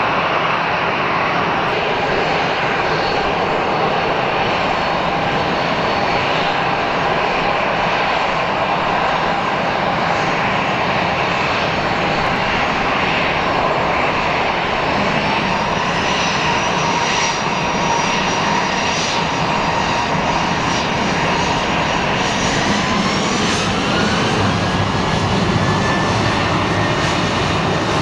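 Boeing 737 jet engines running loud and steady at take-off, with a whine over the rush; about 23 seconds in the whine rises in pitch.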